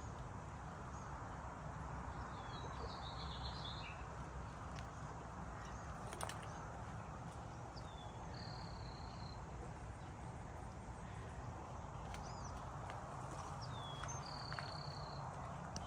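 A songbird calling three times, each a quick hooked note followed by a short buzzy note, about five or six seconds apart, over steady outdoor background noise.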